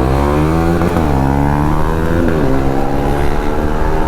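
KTM Duke 390's single-cylinder engine accelerating hard through the gears: its pitch climbs, drops at an upshift about a second in and again a little past two seconds, then climbs once more.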